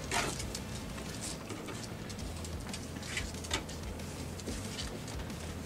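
Chewing and mouth sounds of people eating Big Macs and lettuce, with a few short wet smacks over a steady low room hum.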